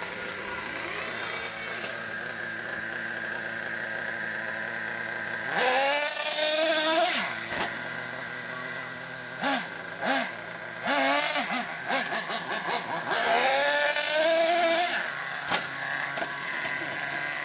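Small nitro engine of a radio-controlled truck running steadily, then revving in short blips and two longer rising revs.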